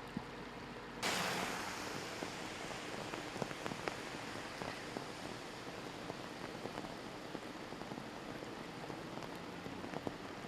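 Steady rain falling, with scattered drops ticking on a surface. The hiss of the rain comes in suddenly about a second in.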